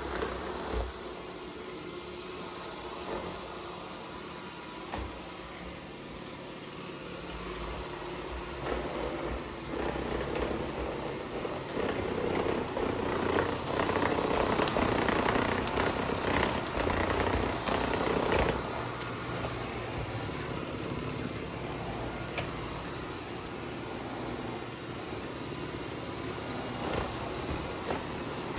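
Dreame X40 robot vacuum running with a steady vibrating noise, which the owner records as a fault. It grows louder for several seconds around the middle, then settles back.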